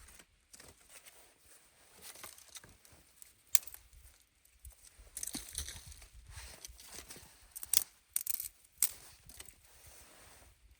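Irregular rustling, scraping and crunching, broken by a few sharp snaps: one about a third of the way in and two near the end, these being the loudest.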